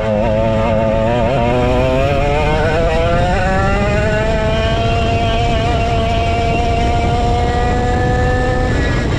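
A 135cc Sudam two-stroke kart engine under power. Its pitch wavers for about two seconds, climbs steadily, holds high, then drops near the end as the throttle comes off, over a steady low rumble.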